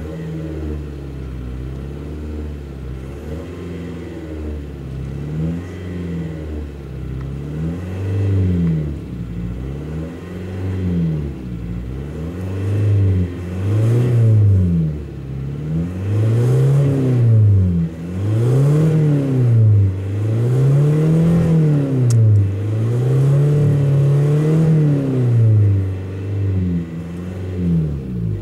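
Skoda Superb 1.9 TDI four-cylinder turbodiesel revved repeatedly through its exhaust. Each rev rises and falls over about two seconds, and the revs go higher and louder from about halfway on.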